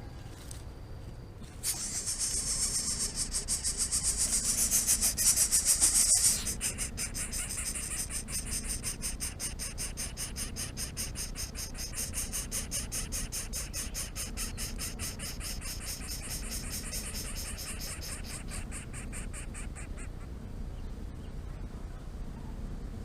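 Insect buzzing in rapid high pulses, starting about two seconds in, loudest for the first few seconds, then softer until it stops a few seconds before the end.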